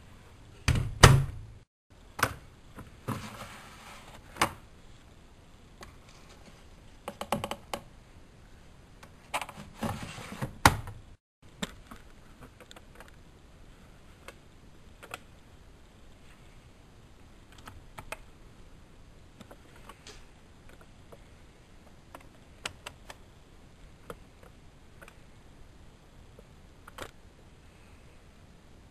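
A series of clicks and knocks, loudest and most crowded in the first ten seconds or so, then only sparse faint clicks. The sound cuts out completely twice, near 2 s and 11 s.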